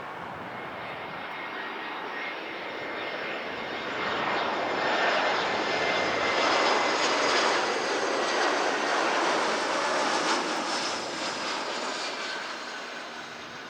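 Jet airliner passing, its engine noise and high fan whine swelling over a few seconds, loudest in the middle, then fading away.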